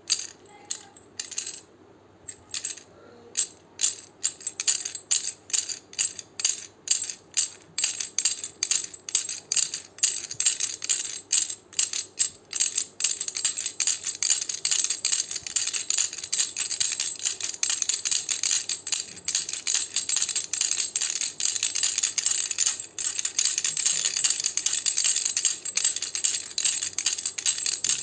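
Baby rattle being shaken: a few separate shakes at first, coming faster and faster until they run together into a near-continuous rattle from about halfway through.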